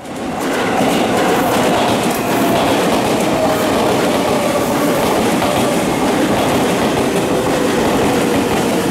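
Electric commuter train running along the adjacent track: steady wheel-on-rail rumble with a faint motor whine that slowly falls in pitch. The sound rises during the first second, then stays even.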